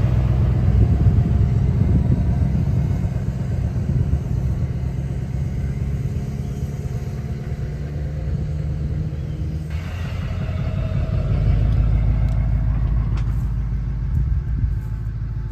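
Truck engine running close by, a steady low rumble that shifts to a deeper tone about ten seconds in.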